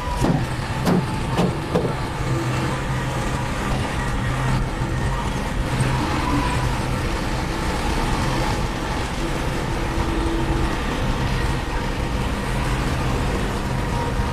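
Diesel engine of heavy construction machinery running steadily, with a few sharp metallic knocks in the first two seconds.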